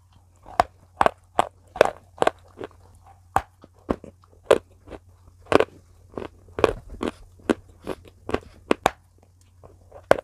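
Close-miked biting and chewing of a hard, white, chalk-like bar: sharp, crisp crunches and snaps, irregular, about two or three a second. A faint low hum runs underneath.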